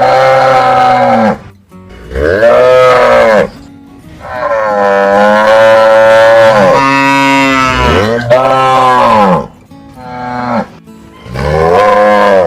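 Cows mooing: four loud moos with short gaps between them. The third is long and drawn out, lasting about five seconds.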